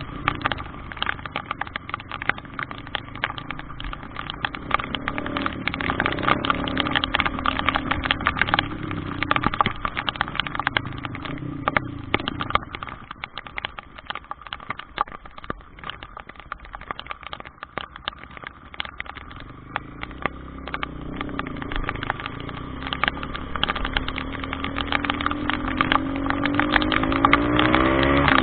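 A vehicle engine running through a dense crackle of rapid ticks. It fades for a few seconds in the middle, then returns and revs up, rising in pitch near the end.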